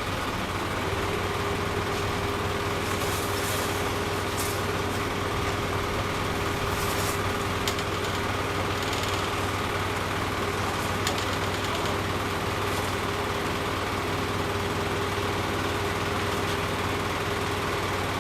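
An engine running steadily at idle, with a steady whine that comes in about a second in, and a few light clicks and knocks of work over it.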